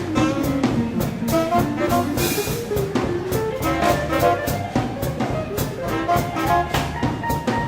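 Swing band playing live, an instrumental passage of horns over a steady drum beat.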